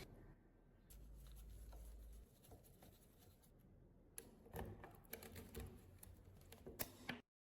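Faint scattered clicks and light taps, bunched together from about four seconds in, with a low hum for about a second near the start; the sound cuts off abruptly just before the end.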